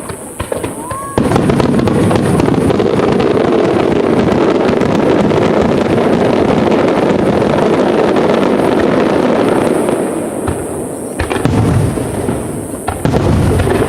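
Aerial fireworks display: a short rising whistle from a climbing shell, then about a second in a dense, continuous barrage of rapid bangs and crackle that runs for about nine seconds before thinning into separate bursts near the end.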